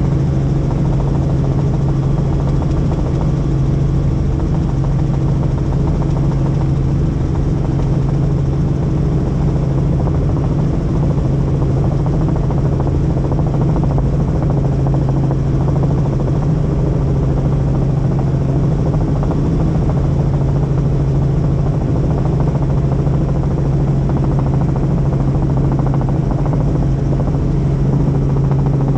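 Helicopter in flight, heard from inside: a loud, steady drone of engine and rotors with a constant low hum, unchanging throughout.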